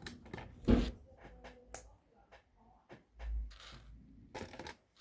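Plastic LEGO pieces being handled at a table: scattered clicks, rattles and rustling as parts are picked out for the next build, with a louder clatter under a second in and a soft thump just past halfway.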